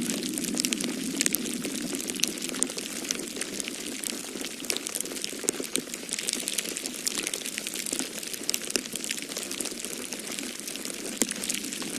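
Wood fire crackling in a fireplace, with many small sharp pops and snaps, over a steady low rush of storm wind.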